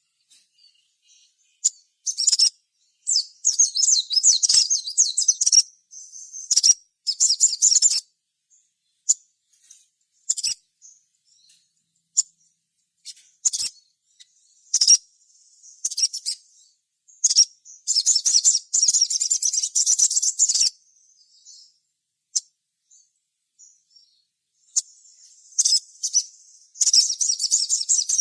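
Crimson sunbird (sogon) song. It comes as phrases of rapid, high-pitched twittering, each lasting one to two and a half seconds, broken up by single sharp chirps.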